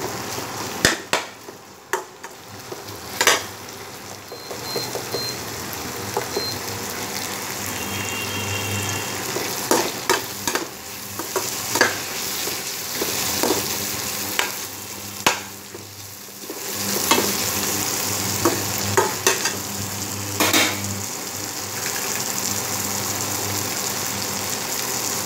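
Sliced onions, tomato and green chillies frying in oil in a metal kadai, with a steady sizzle. A spatula scrapes and knocks against the pan a dozen or so times as they are stirred. The sizzle grows louder about two-thirds of the way through.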